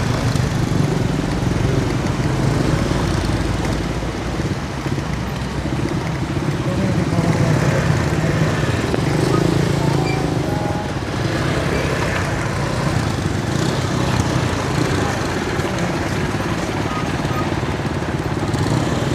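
Road traffic: motor vehicle engines running in a continuous wash of road noise, swelling and easing as vehicles pass.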